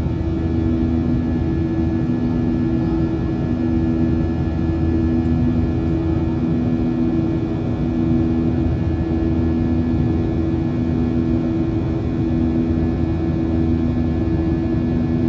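Boeing 737 jet engines heard from inside the passenger cabin during the climb after takeoff: a steady drone with two constant hums over a low rumble.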